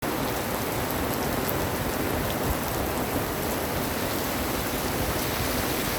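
Heavy rain falling, a steady, dense hiss with occasional single drops ticking out above it.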